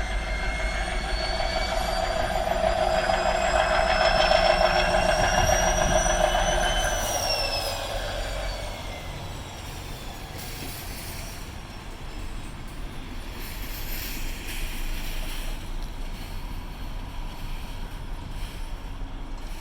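Towboat diesel engines working hard to push a barge tow, with a whine that climbs slowly for about seven seconds, then slides down as the engines ease off to a quieter, steadier run.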